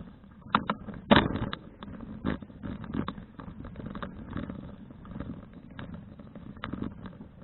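City Cruiser CFH700 folding bicycle rattling with irregular sharp knocks while riding, over a steady low rumble; the loudest knock comes about a second in.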